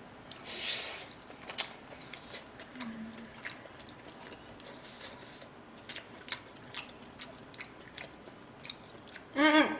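A person chewing a mouthful of fried rice close to the microphone: soft, wet mouth clicks and smacks scattered through, with no words.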